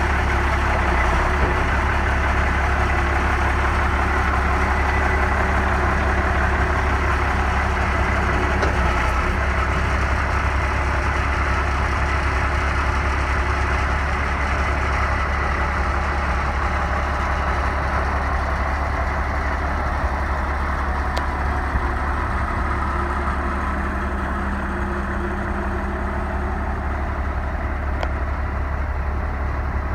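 1990 International 4900 dump truck's diesel engine idling steadily, a little quieter for the last few seconds.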